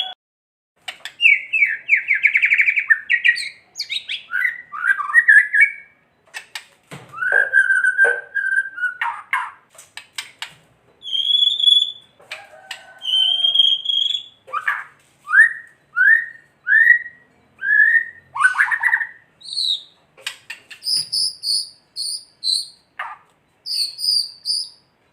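White-rumped shama (murai batu) singing a varied song of whistled phrases, broken by dry clicking rattles (kretekan). It goes into a run of about five short rising notes, then high-pitched repeated notes near the end.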